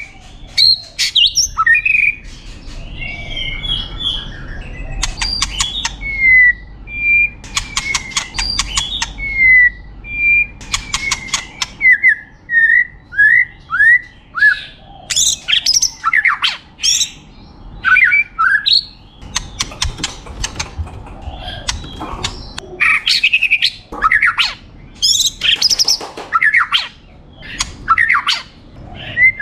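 White-rumped shama (murai batu) singing a long, varied song: clear whistled notes, many sliding down in pitch, mixed with quick rattling runs of harsh clicking notes.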